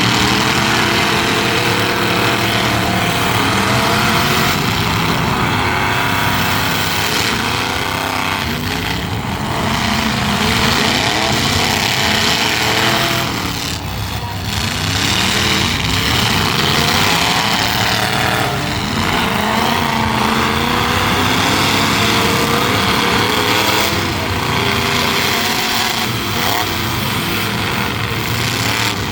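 Several demolition derby trucks' engines revving hard at once, their pitches rising and falling over one another without let-up.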